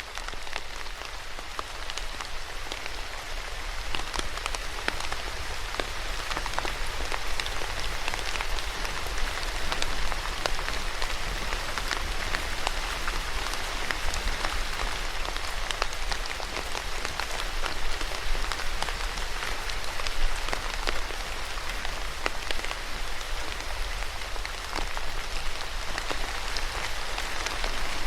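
Steady rain falling, a constant hiss dotted with the sharp ticks of individual drops hitting a surface.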